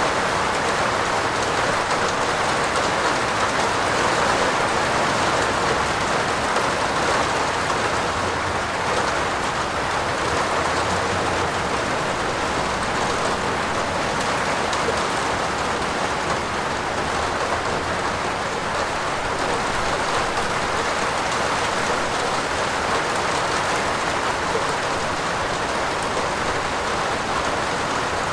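Steady heavy rain falling on a roof, an even, unbroken hiss with no thunder.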